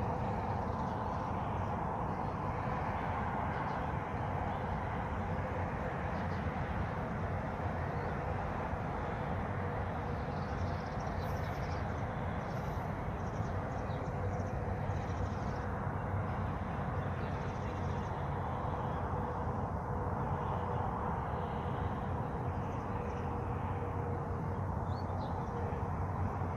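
Outdoor ambience: a steady low rumbling noise with a faint constant hum under it, and faint bird calls now and then from about ten seconds in.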